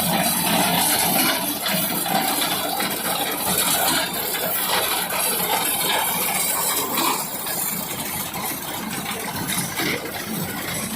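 Tractor engine running steadily while a reaper binder works, with a continuous mechanical clatter over the engine.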